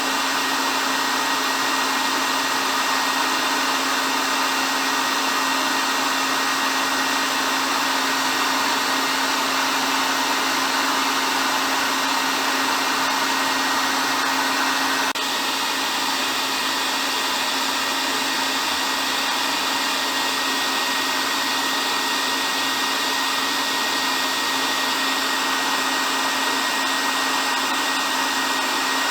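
Hair dryer running steadily: a continuous rush of blown air with a steady motor hum and a thin high whine, dipping slightly in level about halfway through.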